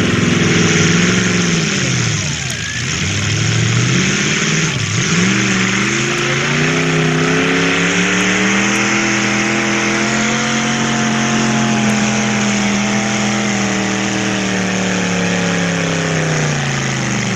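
Pulling truck's engine at full throttle during a two-wheel-drive truck pull. The revs climb and dip twice in the first few seconds, then hold high for about ten seconds, sag slowly near the end and cut off.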